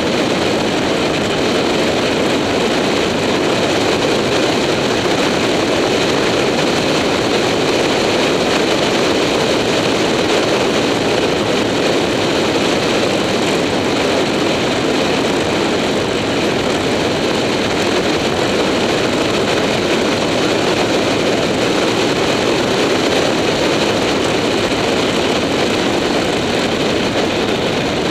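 A motorcycle running steadily at road speed, its engine under a loud, even rush of wind over the microphone.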